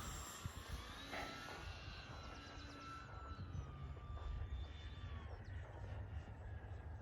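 Dynam Hurricane RC warbird's electric motor and propeller whining as it flies past, the pitch sliding down slowly over a few seconds.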